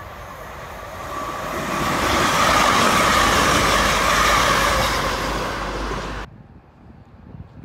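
Grand Central Class 180 diesel multiple unit passing through the station at speed, a rushing noise of wheels and underfloor engines that swells over a second or two. The sound cuts off suddenly about six seconds in.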